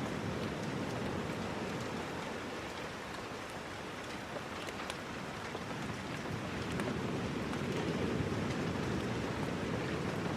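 Steady rain, with scattered light ticks of drops over a low rushing that eases a few seconds in and swells again.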